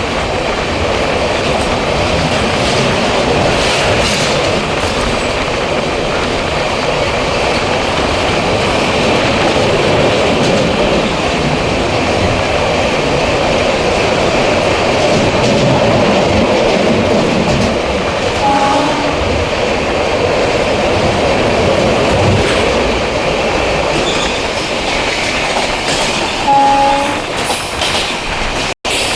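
Passenger train hauled by an electric locomotive running on the track, a steady rumble and clatter of wheels on rail. Two short horn toots sound, one about two-thirds of the way through and one near the end.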